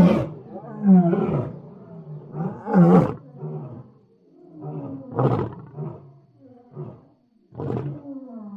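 Lion roaring: a series of deep roars, the first three loudest and about a second apart, followed by shorter, quieter calls that trail off.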